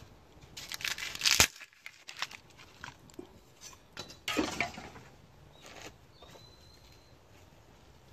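Crunching and crinkling of dry kindling and paper being handled to build a wood fire, in two loud bursts: one about a second in that cuts off sharply, and another about four seconds in, with scattered small cracks between them.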